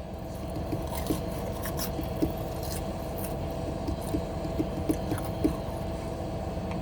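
Close-miked chewing of fast food: soft wet squishing and scraping, with scattered small clicks, over a steady low hum.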